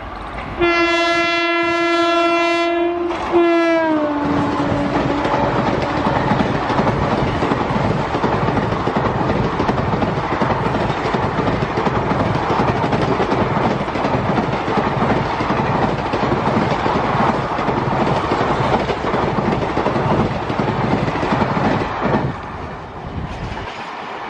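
An Indian Railways express train passing at speed. The locomotive's horn sounds one steady blast of about three seconds that drops in pitch as the engine goes by. A long rake of coaches then rushes past with the wheels clattering over the rail joints, fading near the end.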